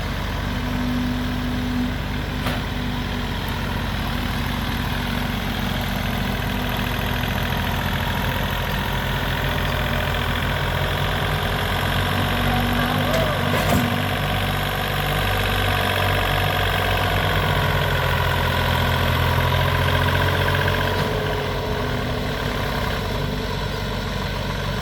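Heavy work machine's engine running steadily at low speed, a little louder through the middle stretch.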